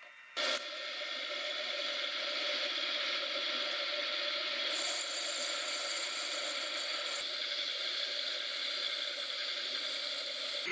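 Mechanical clock movement ratcheting, with a sharp click about half a second in followed by steady mechanical noise.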